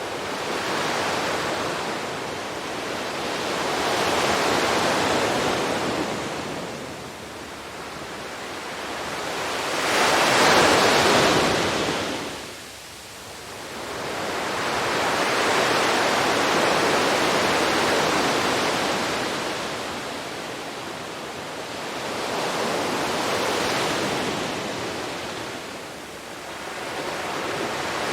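Sea waves breaking and washing onto a beach, swelling and receding every few seconds. The biggest wave comes about a third of the way in, followed by a brief lull.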